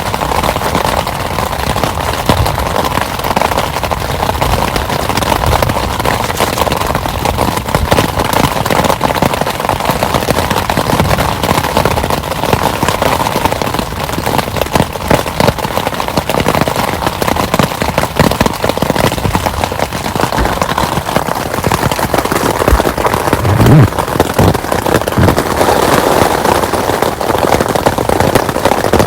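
Heavy rain falling, a loud, dense, steady patter of drops. There is a brief low thump about twenty-four seconds in.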